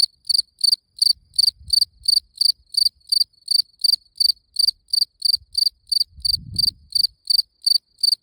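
A cricket chirping steadily, about four short, high-pitched chirps a second in an even rhythm.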